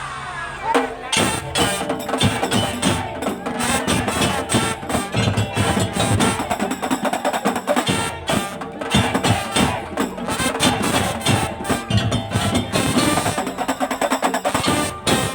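Madurese daul (tongtong) ensemble playing: fast, dense strikes on wooden slit drums and drums over a steady held melodic line.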